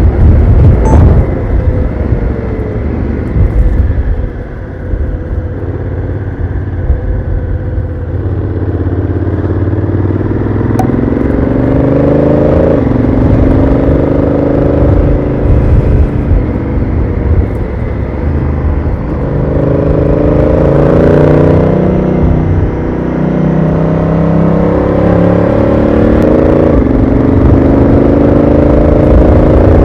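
Honda Africa Twin CRF1000L's parallel-twin engine on its stock exhaust, accelerating: the pitch climbs and then drops sharply several times as the DCT gearbox shifts, over a low rumble of wind and road.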